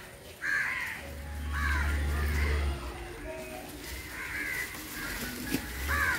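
A bird calling outdoors in about five short calls spread through the stretch. A low hum runs underneath from about one to three seconds in.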